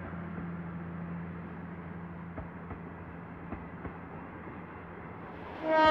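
Limited express Yakumo electric train running with a steady low hum and rumble and a few faint clicks. A train horn sounds loudly near the end, one steady held note.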